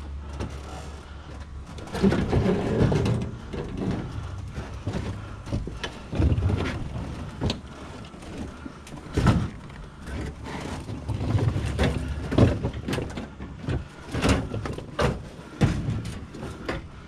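Scrap items being shifted and wrestled into a vehicle load: an irregular run of knocks, thuds and scrapes, with heavier hits about 2, 6, 9 and 12 seconds in.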